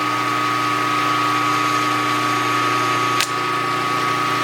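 Milling machine running with its power feed engaged at one thou per revolution as a boring head cuts a bearing bore: a steady hum with a high whine over it. There is one faint tick about three seconds in.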